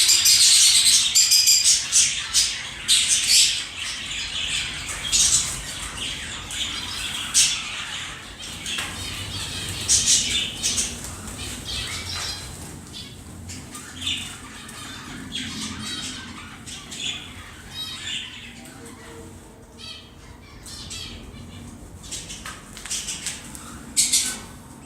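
Birds squawking: a rapid run of short, harsh calls, loudest and densest in the first few seconds, then thinning out, with one more loud burst near the end.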